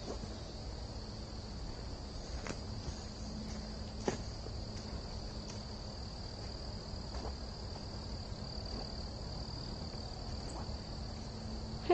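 A steady, high-pitched, unbroken insect drone, with a few faint clicks scattered through it.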